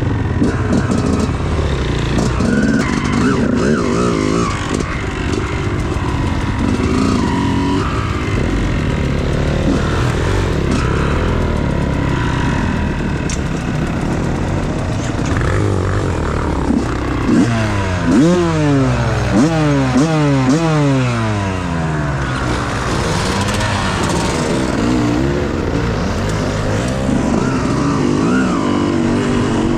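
Dirt bike engine running hard under load. Between about 17 and 22 seconds the throttle is blipped about six times in quick succession, the revs rising and dropping each time.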